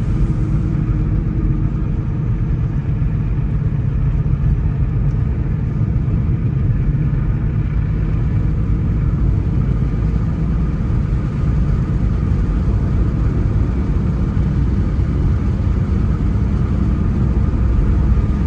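A car driving steadily along a road: a continuous low rumble of engine and tyre noise that holds even, with no sudden events.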